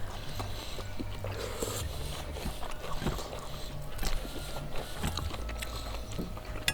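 Quiet eating with the hands: faint scattered clicks and small mouth and food noises over a steady low rumble.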